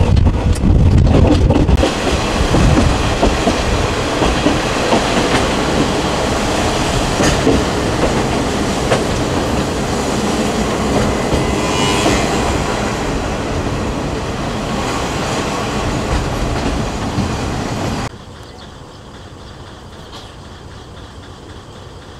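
A Kominato Railway diesel railcar running along the line, heard from on board with the rails clattering under it. About 18 seconds in the sound cuts off suddenly to a much quieter, steady background.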